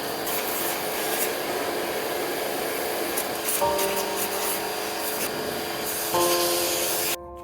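A steady rasping, scrubbing noise over background music chords; it cuts off suddenly near the end, leaving only the music.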